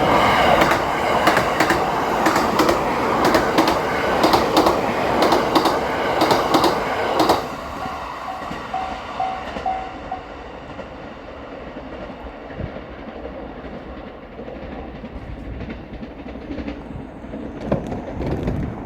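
The 285 series "Sunrise Seto" sleeper train passes over a level crossing, its wheels clicking over rail joints in a quick, steady rhythm, with the crossing bell ringing. The loud train noise drops off sharply about seven seconds in. The crossing bell is then heard on its own for a couple of seconds before it stops, and a fainter rumble follows.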